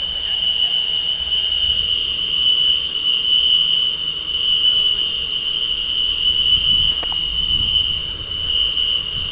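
Crickets chirring in a steady, unbroken high-pitched trill.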